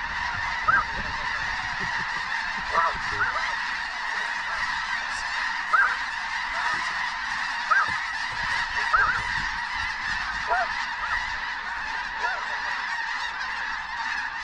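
A huge flock of snow geese calling overhead: a continuous din of high honking, with single louder calls standing out every second or two.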